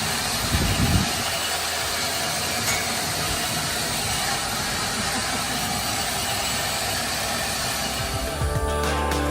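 Steady rushing of wind and sea around a sailboat under way in open ocean, with a brief low buffet of wind on the microphone under a second in.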